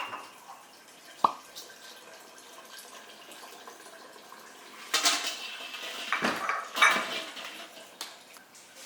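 Kitchen clatter of dishes and utensils knocking together: one sharp clink about a second in, then louder clattering around five seconds and again around seven.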